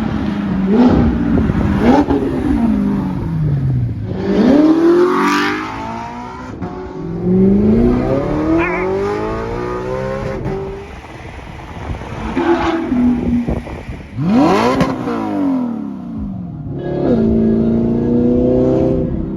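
Straight-piped, naturally aspirated Audi R8 V8 exhaust, loud, revving and passing by several times, its pitch climbing and then falling away on each pass, in a run of separate short clips.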